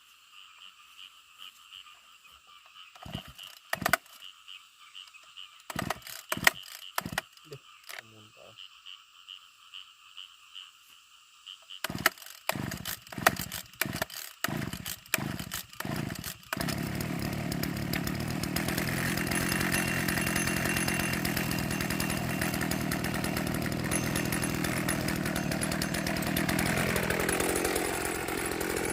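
A series of separate knocks, closer together after about 12 seconds, then a small petrol engine starts up about two-thirds of the way in and runs steadily, shifting in pitch near the end.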